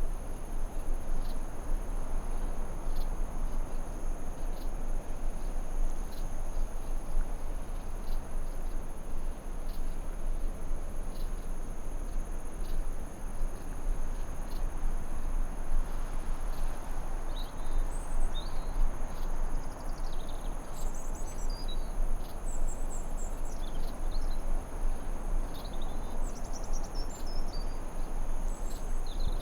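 Forest ambience: a steady, high insect drone like crickets over an even hiss. From about halfway on, birds add short, quick chirps and falling whistles.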